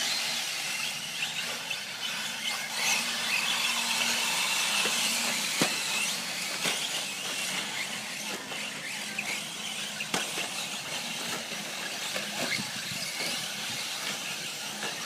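Electric 4WD radio-controlled short course trucks racing on an offroad track: a steady hiss of tyres on dirt with faint motor whines rising and falling, and a few sharp knocks.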